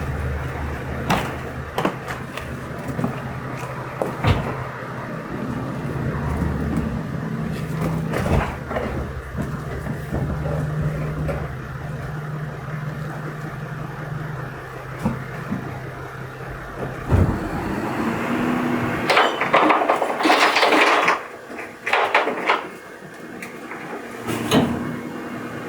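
Garbage truck engine running with scattered knocks and clunks; the hum stops about two-thirds of the way through, and several loud bursts of clattering noise follow.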